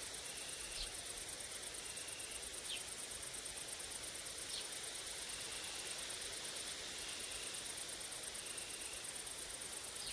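Grasshoppers and crickets chirring steadily in a very high, fast-pulsed buzz, with a lower short trill repeating about once a second. A few brief, falling high calls, likely birds, cut in three or four times.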